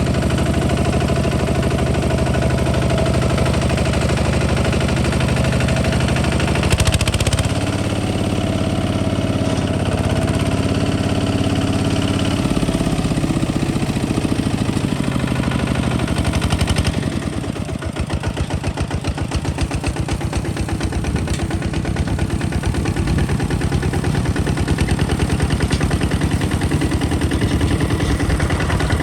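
Kubota ZT 155 DI single-cylinder diesel engine of a two-wheel tractor running steadily. About seven seconds in its note shifts. From about 17 seconds it drops to a slower, slightly quieter chugging with each firing stroke distinct.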